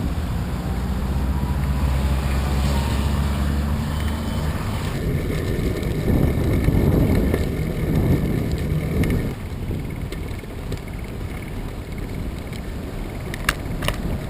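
Strong wind buffeting the microphone over a low rumble of traffic, with a steady low hum for the first few seconds. Two sharp clicks come near the end.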